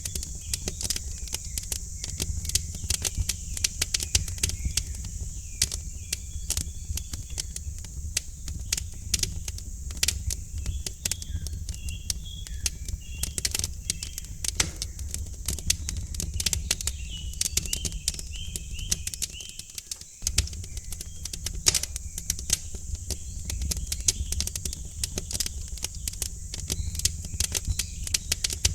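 Wood fire in a fireplace crackling, with irregular pops and snaps over a low steady rumble. Birds chirp faintly in the background, and a steady high hiss runs underneath.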